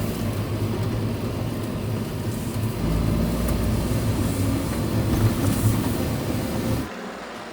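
Steady low rumble of a vehicle on the move, with a hiss over it. It drops away suddenly near the end.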